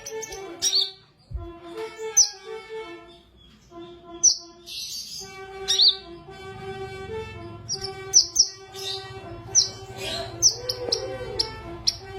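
Sunbird (kolibri) singing: a run of short, sharp, high chirps, many sweeping quickly down in pitch, coming about once a second and bunching closer together near the end.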